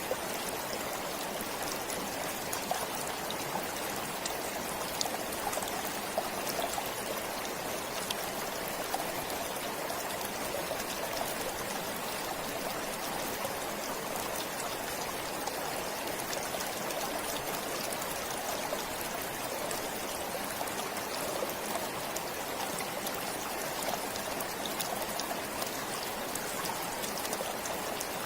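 A forest stream flowing steadily over rocks, a continuous rushing babble with faint scattered droplet splashes.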